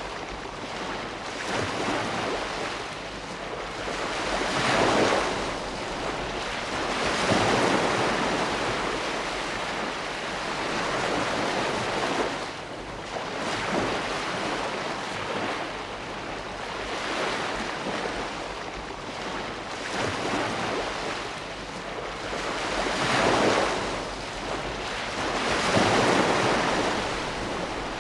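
Ocean waves breaking and washing ashore, a steady rush of surf that swells as each wave breaks, several times over.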